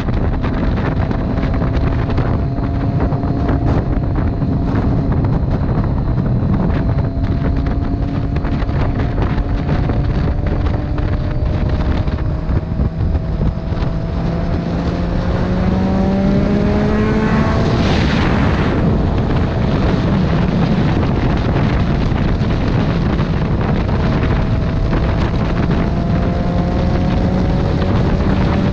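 Motorcycle engine running at road speed under heavy wind noise on the microphone. Its note sags slowly, then rises steadily as the bike accelerates, and drops back about 18 seconds in at a gear change before holding steady.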